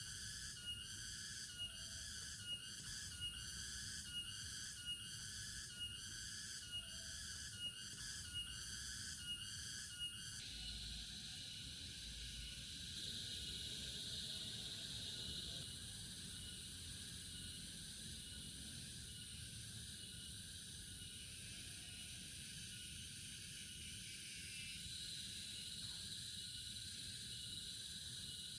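Night insects chirping in an even, pulsing rhythm of about one and a half chirps a second. About ten seconds in, the pulsing stops and a steady high trill carries on.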